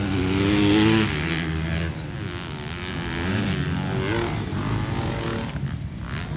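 Dirt bike engine revving, its pitch rising and falling, loudest about the first second.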